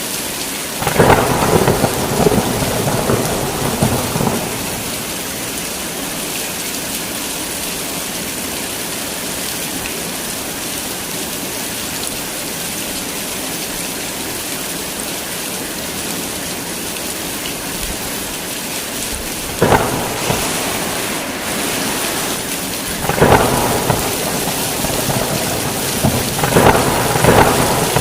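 Heavy rain falling steadily, with thunder cracking and rumbling about a second in, again near 20 seconds, and twice more toward the end.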